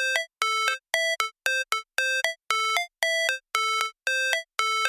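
Electronic synthesizer melody of short, clipped notes with silences between them, about two or three notes a second at changing pitches, like a ringtone.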